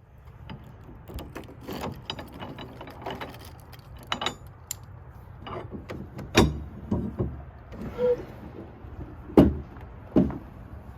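Irregular mechanical clicks and knocks over a steady low hum, the two loudest knocks about six and a half and nine and a half seconds in.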